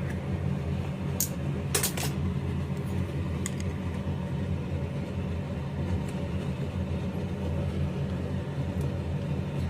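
A few light clicks and clinks, like utensils against a dish, over a steady low hum.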